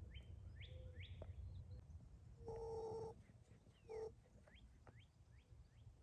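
Small birds calling faintly, with short rising chirps, and two louder calls held at one pitch: one about two and a half seconds in, and a shorter one at about four seconds.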